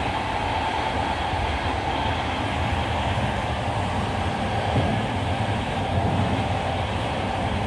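Steady running rumble of a moving passenger train heard from inside the carriage, with a faint steady whine above it.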